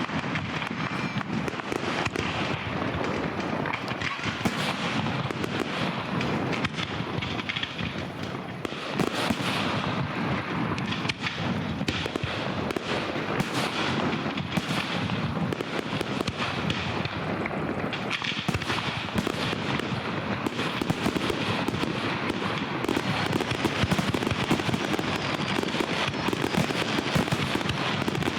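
Fireworks going off without pause, a dense crackle of many quick pops and bangs.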